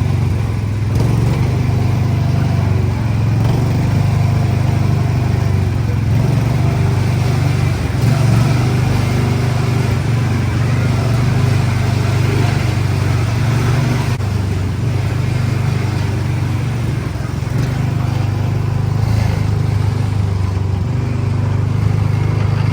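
A motor vehicle's engine runs steadily at low speed, heard up close, as a loud even hum with no clear revving.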